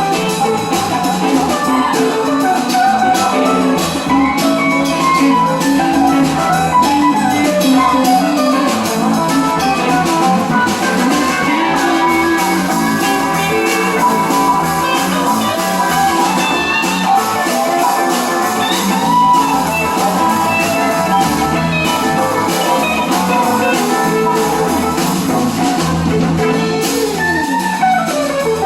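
Live band music with guitar and drums.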